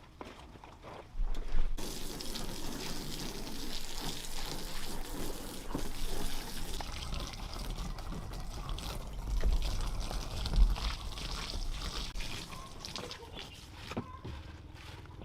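Water running or pouring as a steady splashing hiss that starts suddenly about two seconds in and thins out near the end.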